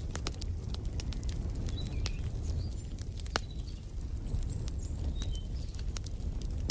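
Wood fire crackling in a fireplace, with many sharp pops over a steady low rumble. Short, high bird chirps come and go through the middle.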